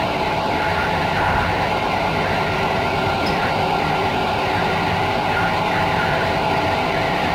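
Passenger train coach running at speed along the track: a steady rolling rumble of wheels on rail with a constant hum and soft recurring swells of noise higher up.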